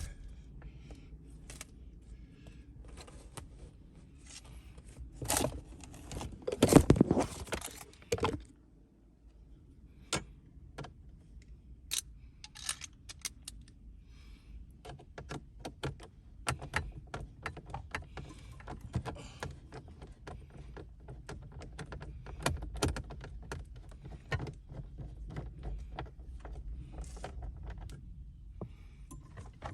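Hand tools and metal parts being handled: irregular clicks, clinks and light rattles throughout, with a louder clattering stretch around five to eight seconds in.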